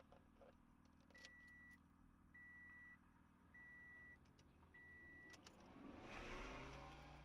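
Faint electronic beep repeating about once a second, each beep about half a second long at one steady pitch, over a low vehicle engine hum. Near the end a rush of vehicle noise swells up, and the beeps pause.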